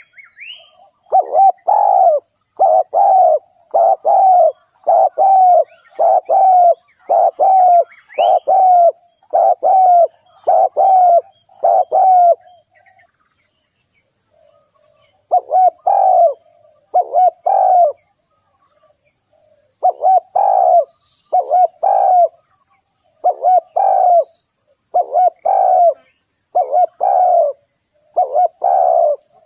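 Spotted dove cooing: a decoy bird's call of the kind used to lure wild spotted doves to a trap. Short coo phrases repeat about once a second, break off for a few seconds about halfway through, then start again.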